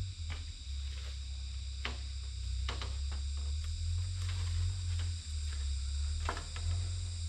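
Steady high-pitched insect chorus of crickets or cicadas over a low rumble, with a few scattered short knocks.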